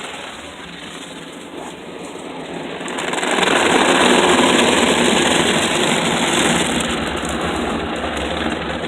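PDQ ProTouch tandem automatic car wash running: a loud, steady rush of machinery and spray that swells about three seconds in and eases off near the end.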